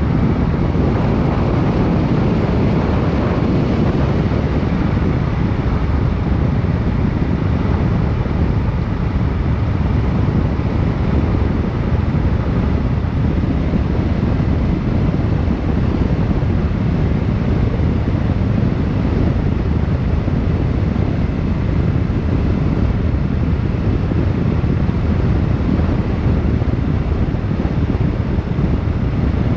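Steady wind noise buffeting the microphone over the drone of a moving vehicle, holding an even speed with no change in pitch.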